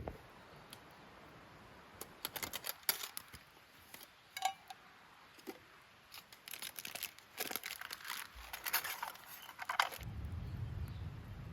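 Dry twigs and kindling crackling and snapping in a small fire stove, as irregular clusters of sharp crackles. A low rumble comes in near the end.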